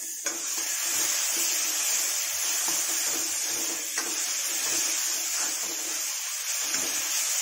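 Onion-tomato masala sizzling in a metal kadhai as a metal ladle stirs and scrapes it around the pan, with a few sharper scrapes along the way.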